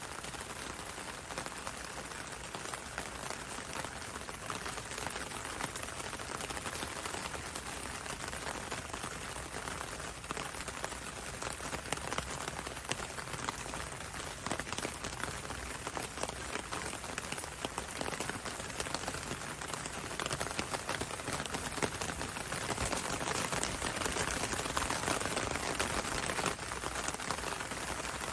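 Steady gentle rain, with a close patter of drops hitting a window over a constant hiss of rain on the road.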